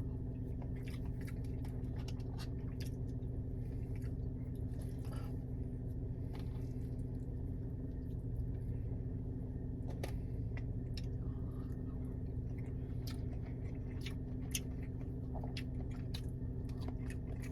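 Close-up chewing of soft scrambled egg: small wet squishes and mouth clicks scattered throughout, over a steady low hum.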